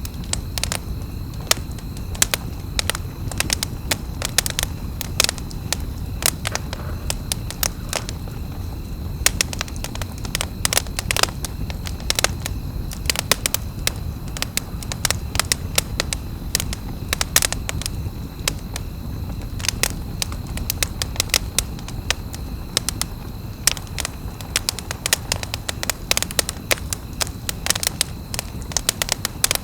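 Campfire crackling, with frequent irregular sharp snaps and pops over a low steady rumble of the burning wood.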